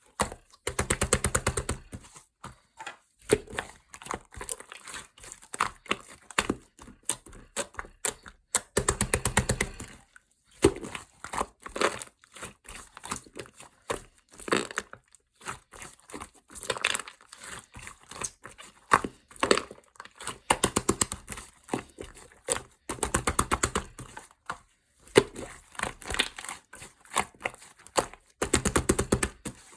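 Melon pan being torn and handled: crinkling, crackling bouts about a second long, several times, with small crackles between them.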